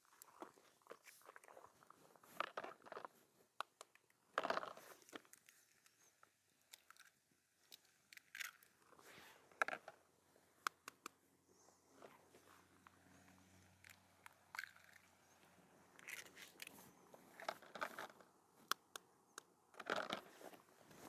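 Someone eating: irregular crunchy bites and chewing, faint, with short clicks scattered throughout.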